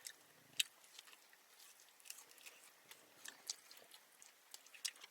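Close-up chewing and lip-smacking: tough, overcooked steak being chewed with the mouth open, a quiet run of irregular wet clicks and smacks.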